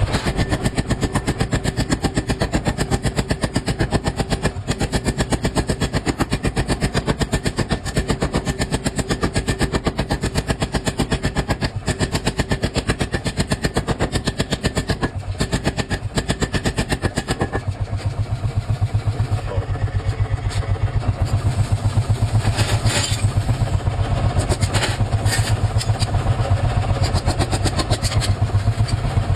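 Mechanical power hammer pounding rapidly and steadily on hot iron as a knife blank is forged. About two-thirds of the way through the pounding gets heavier, with a few sharper metallic strikes.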